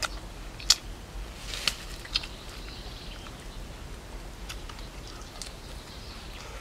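Chewing sounds from a man eating grilled pork: a few sharp wet smacks and crunches in the first couple of seconds, then fainter ones.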